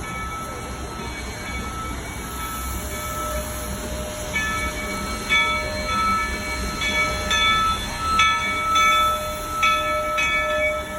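Narrow-gauge passenger train heard from aboard, with a steady low running rumble. From about four seconds in, high-pitched squeals of several tones come and go again and again, typical of steel wheels squealing against the rail.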